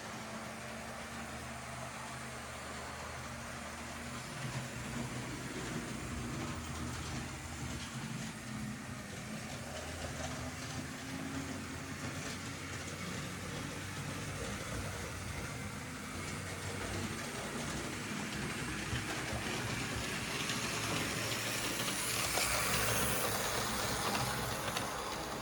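Märklin H0-scale model train running on the track: a steady motor hum with wheel rumble, turning louder and hissier near the end.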